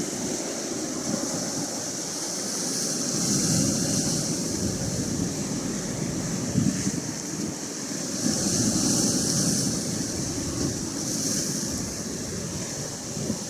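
Atlantic Ocean waves washing in, the hiss of the surf swelling several times, with wind buffeting the microphone.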